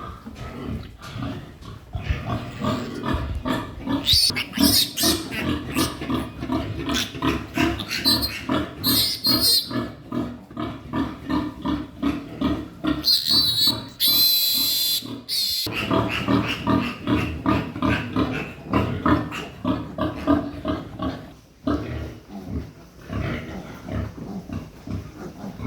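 Pigs grunting in a rapid, continuous chorus. A loud, high squeal lasting about two seconds comes a little past halfway through.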